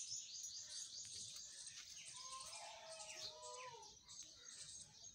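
Small birds chirping, a dense run of quick, high-pitched chirps that keeps going.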